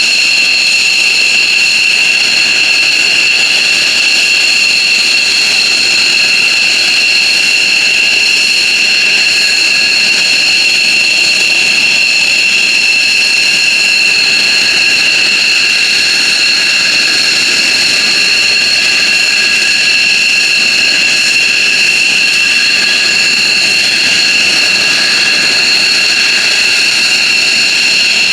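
F-15J Eagle's F100 turbofan jet engines running steadily with a loud, high-pitched whine that holds one pitch throughout.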